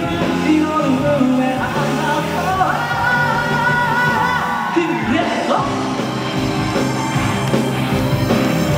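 Live band playing a pop ballad, with a singer holding long, drawn-out notes over the accompaniment.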